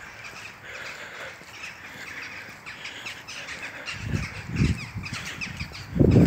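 Birds calling over and over in short, quick notes. Low rumbles hit the microphone about four seconds in and again, louder, near the end.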